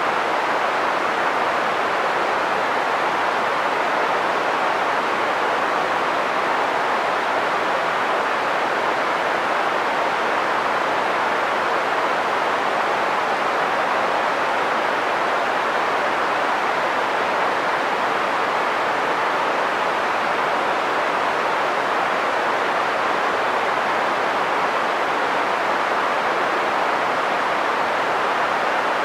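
Green noise: a steady, even hiss centred on the middle frequencies, thinner in the bass and treble, holding one level throughout.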